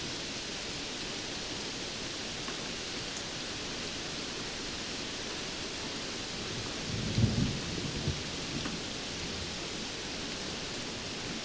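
Steady rainfall hiss, with a low rumble of thunder about seven seconds in that swells and fades over a second or two.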